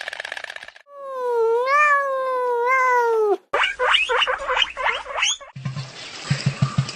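A domestic cat meowing: one long, drawn-out call that rises, wavers and falls in pitch. It is followed by a run of short, high rising squeals and then a low, rapid pulsing, each cut in abruptly.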